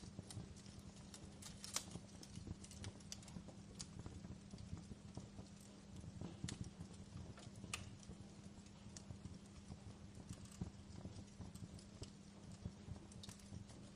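Wood fire crackling in a fireplace: irregular sharp pops and snaps over a low rumble, with a steady low hum underneath.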